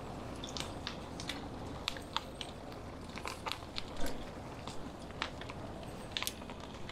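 Bicycle tyres rolling over a gravel and twig-strewn dirt trail, giving irregular crunches and crackles, several a second, over a steady low rumble.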